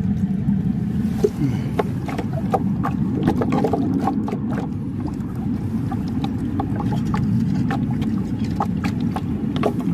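River water rushing over a stony bed, a steady low noise, with many short sharp clicks and knocks scattered through it.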